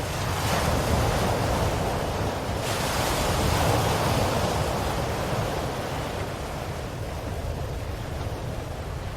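Ocean waves washing onto a shore in a steady rush of surf, swelling about half a second in and again around three to four seconds in, then easing off.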